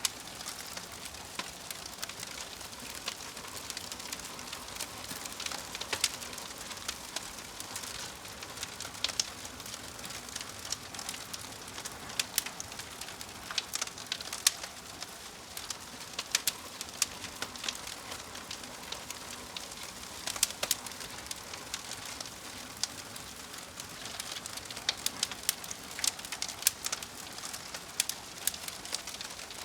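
Wood fire crackling, with frequent sharp pops and snaps over a steady hiss.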